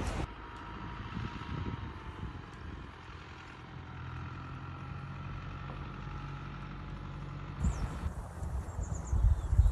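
Mountain outdoor ambience with a faint, steady hum like a distant engine. About three-quarters of the way in it gives way to low wind rumble on the microphone and a few short, high bird chirps.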